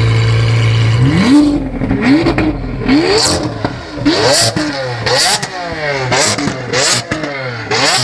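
A sports car engine idling steadily, then revved in quick repeated blips from about a second in, roughly one a second, with a sharp bark at the top of each rev.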